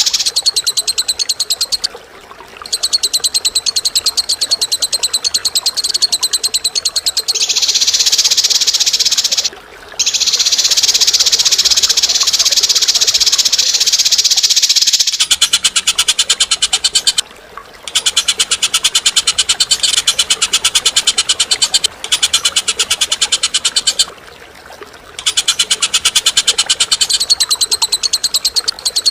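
Recorded bird calls played as a song-tutor track: long runs of a very fast, harsh rattling trill, each several seconds long with short breaks between. About halfway through the call changes to a different, lower-reaching rattle.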